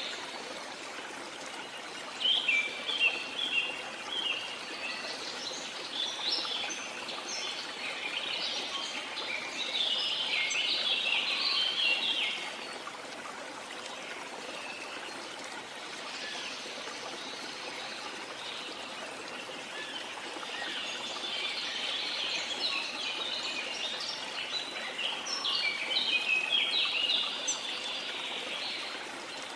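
Birds chirping and twittering in dense flurries over a steady rush of flowing water. The chirping thins out for several seconds in the middle, leaving mostly the water, then picks up again.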